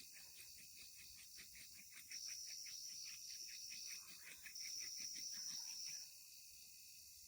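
Night insects calling, faint: a fast, even pulsing chirp that stops about six seconds in, joined twice by a steady high buzzing trill, each stretch lasting about two seconds.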